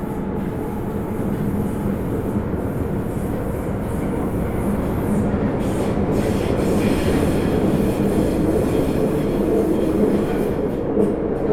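Osaka Metro 30000 series subway train running, heard from inside the car: a steady rumble of wheels on rail with a low motor hum, growing a little louder partway through.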